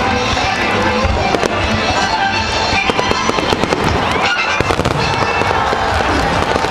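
Fireworks bursting and crackling in quick, irregular pops, with music playing along throughout.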